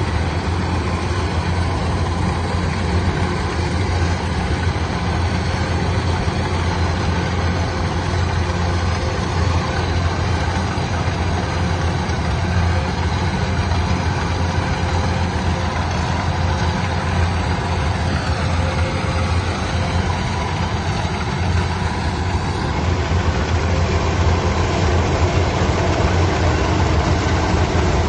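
Heavy machine engine running steadily with a low, even hum, a little louder near the end.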